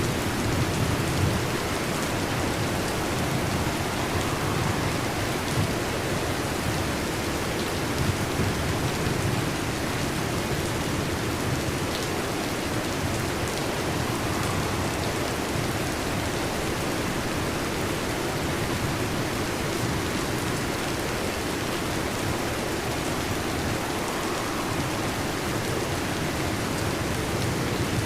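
Steady heavy rain falling, with low thunder rumbling underneath and swelling about a second in and again about eight seconds in.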